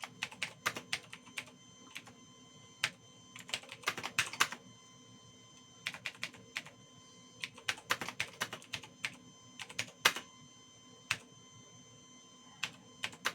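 Computer keyboard being typed on in uneven bursts of keystrokes with short pauses between words, as a reply is entered into Dr. Sbaitso.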